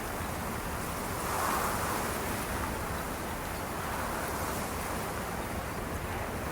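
Steady rushing noise, swelling a little between about one and two seconds in.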